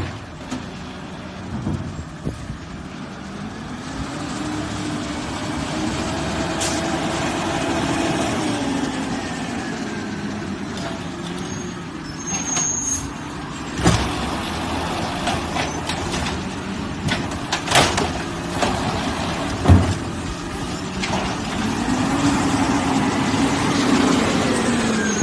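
Garbage truck running, its engine rising in revs and settling back twice, with sharp metal knocks and bangs in between.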